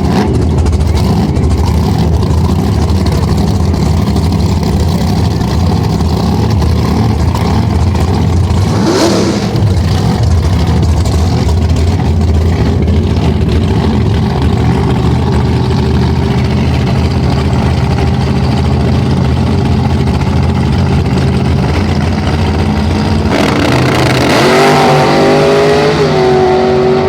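Drag car engines running loudly and steadily, with a brief rush of noise about nine seconds in and an engine revving up, its pitch rising, near the end.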